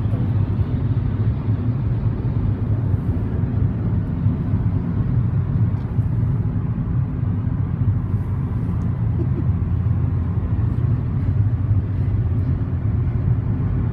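Car driving along: a steady low rumble of engine and road noise heard from inside the cabin.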